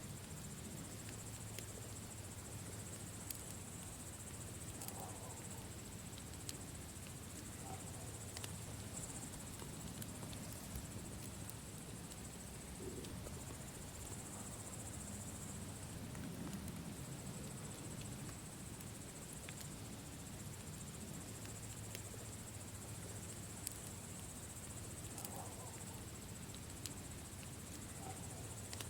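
Campfire crackling with scattered sharp pops, over a steady high chirring of insects.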